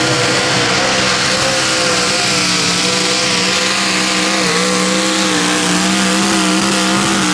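A pulling tractor's engine running flat out at high revs during a pull, a loud, steady, high-pitched drone whose pitch barely wavers.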